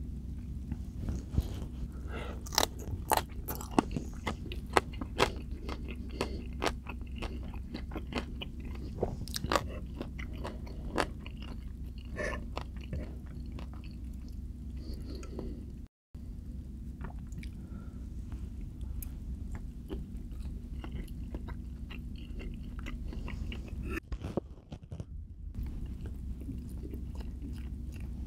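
Close-miked chewing and biting of food: wet mouth sounds with many sharp crunchy clicks, densest in the first half, over a steady low hum. The sound cuts out completely for a moment about halfway through.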